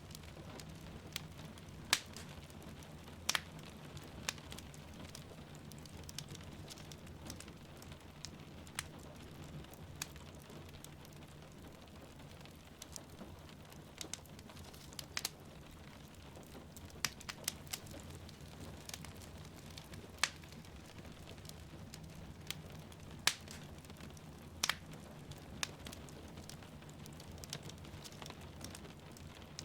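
Wood fire crackling in a fireplace, with irregular sharp pops every second or two over a steady low rumble, and rain falling steadily in the background.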